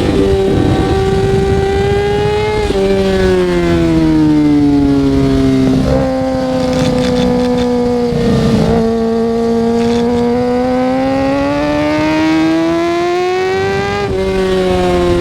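Kawasaki ZX-6R 636's inline-four engine running under way, its pitch jumping abruptly at gear changes about three and six seconds in and again near the end, easing down and then climbing back between shifts.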